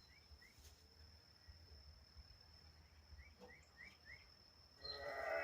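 Faint rural background: a bird giving short rising chirps, several in quick succession about three to four seconds in, over a steady thin high whine. Near the end a cow starts to moo.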